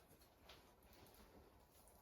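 Near silence: quiet room tone, with one faint tick about half a second in.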